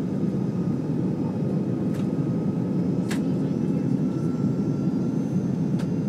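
Airbus A330-300 cabin noise heard from a passenger seat: a steady, dense rumble of engines and airflow with a faint high whine over it. Three light clicks, about 2, 3 and 6 seconds in, stand out from it.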